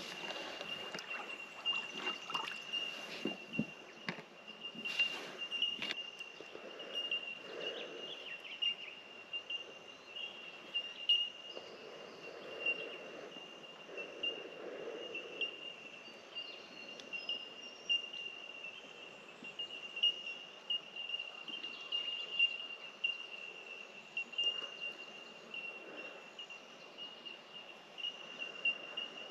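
Chorus of bell miners (bellbirds): many birds giving high, pinging 'tink' notes at nearly one pitch, running together into a constant ringing. A few soft low rushing sounds come and go beneath it.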